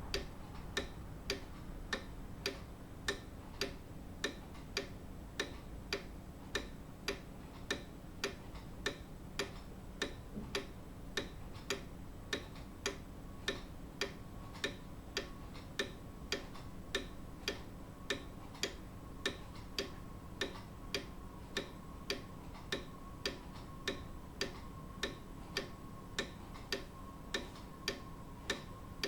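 Grandfather clock ticking, its pendulum escapement giving sharp, evenly spaced ticks at a steady pace.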